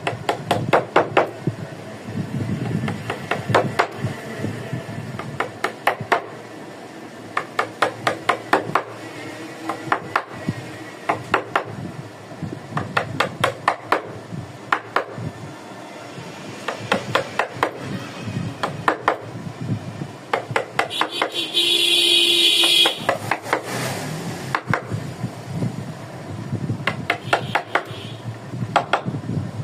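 Wood-carving chisel struck with a mallet in quick runs of sharp taps, several a second, with short pauses between runs. About two-thirds of the way through, a brief, loud steady whine sounds for about a second and a half.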